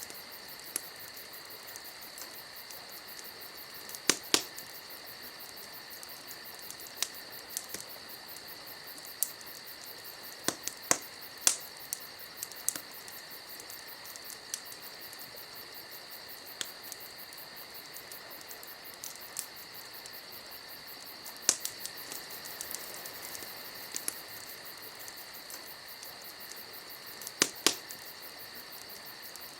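Steady, high chirring of crickets with a fast, even pulse, broken by scattered sharp crackles and pops, the loudest a few seconds in and near the end.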